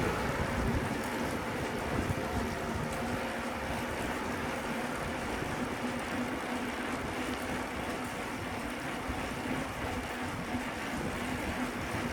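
Steady rushing noise while riding a bicycle along city streets: wind on the microphone and road noise, with a faint steady hum underneath.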